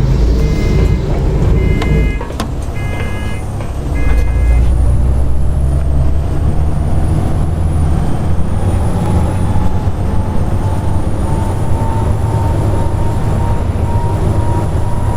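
Volvo B7TL double-decker bus engine running under way and getting louder about four seconds in, with a thin high whine that rises and dips several times: the loud 'hoover' sound. Four short electronic beeps sound in the first few seconds.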